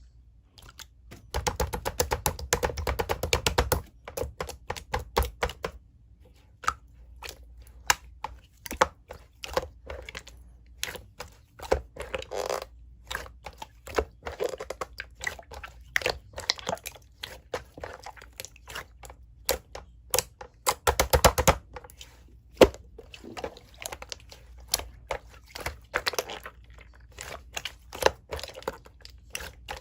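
Slime being squished and poked by hand, giving many sticky clicks and small pops. The clicks come thickest in two rapid runs, one just after the start and another about two-thirds through.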